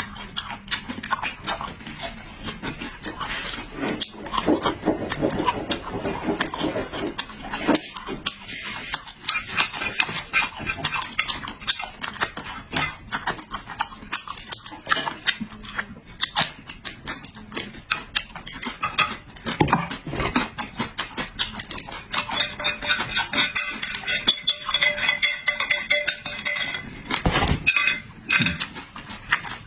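A person eating noisily close to the microphone: wet chewing, smacking and slurping in quick, irregular clicks, with a drawn-out pitched sound near the end.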